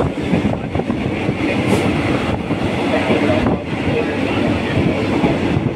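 Running noise of a moving train heard from on board: a steady rumble with many small irregular knocks from the wheels and carriage.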